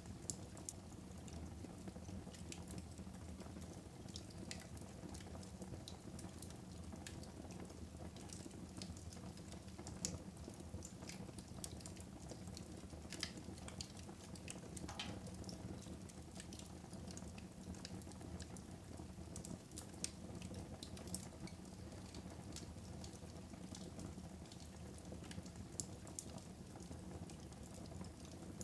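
Fire in a fireplace crackling, with a steady low rush of flames under frequent, irregular sharp pops.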